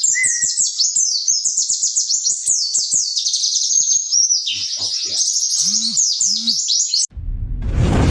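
Rapid, dense high-pitched twittering song of a pleci (white-eye, Zosterops), chattering without a break. It cuts off abruptly about seven seconds in and a loud rushing noise rises in its place.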